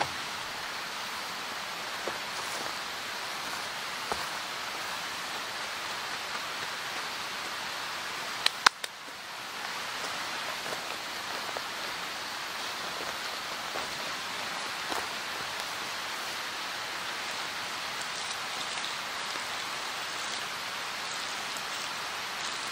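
Steady rain hiss with faint scattered drip ticks. A sharp double knock comes about eight and a half seconds in, the hiss briefly drops away, then it comes back.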